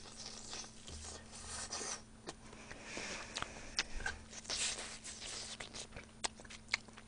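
Close-miked chewing of a mouthful of braised chicken with glass noodles: soft wet mouth clicks and smacks, many small irregular ticks.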